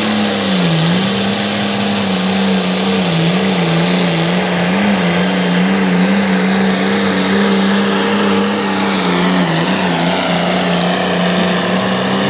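A turbocharged diesel pulling tractor runs at full power, dragging the weight sled down the track, with a steady, loud engine note and a faint high whine over it. The engine pitch sags briefly about a second in as it loads, then wavers slightly as it pulls, and the sound drops right at the end.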